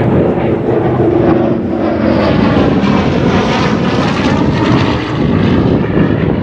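Propeller-driven aircraft flying past with its engine running loud and steady, the sound sweeping as it goes by.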